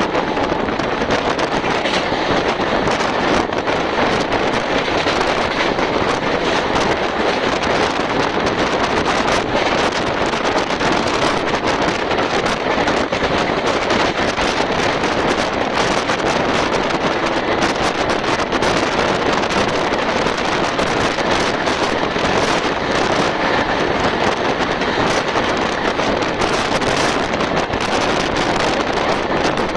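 Steady rushing noise of a fast-moving express train heard at its window: wind rushing past and buffeting the microphone over the train's running noise.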